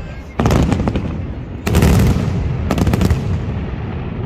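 Fireworks going off: three volleys of rapid bangs and crackle, about a second apart, each with a low rumble, the middle volley loudest.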